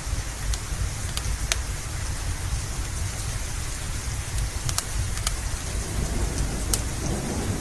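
Steady rain hiss over a deep low rumble, with sharp scattered crackles from a wood fire in a fireplace. A thunder rumble starts building near the end.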